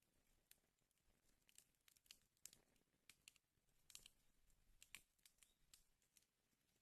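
Wood fire burning in a fireplace, faint irregular crackling with a few sharper pops around the middle.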